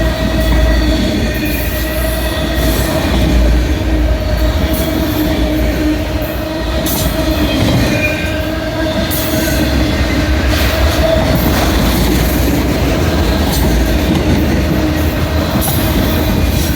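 Freight train of loaded auto-rack cars rolling past close by: a steady low rumble with sustained steady tones from the wheels, and scattered sharp clacks.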